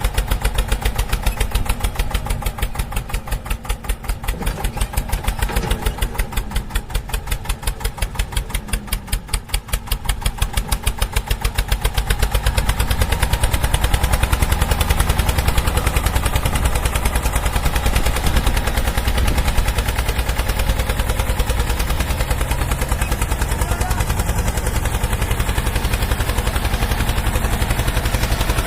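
Eicher 242 tractor's single-cylinder diesel engine running with a distinct beat of separate firing strokes. About twelve seconds in it speeds up and gets louder, holding the faster pace from then on.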